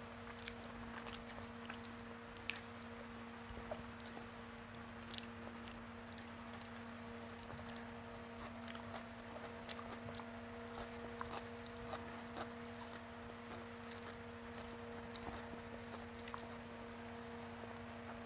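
Quiet, close-miked chewing and wet mouth sounds of someone eating rice mixed with bottle-gourd curry by hand, with many small clicks and squishes from the fingers working the rice. A steady low hum runs underneath.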